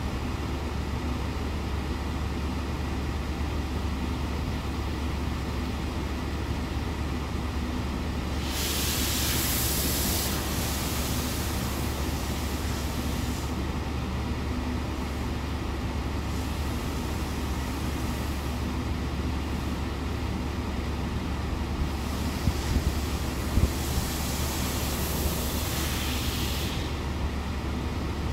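Car wash heard from inside a car: a steady low rumble, with two spells of loud hissing a few seconds long, one about a third of the way in and one near the end.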